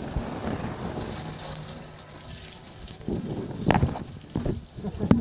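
Heavy rain pouring steadily, dropping away after about three seconds, with a few sharp knocks near the end.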